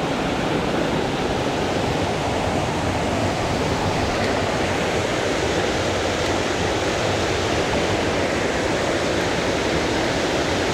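Steady rushing of a mountain stream's water over rocks, an even, unbroken noise.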